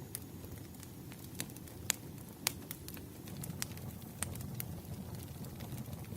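Wood fire crackling, with irregular sharp pops over a steady low rumble of burning logs; the loudest pops come about two seconds in and again half a second later.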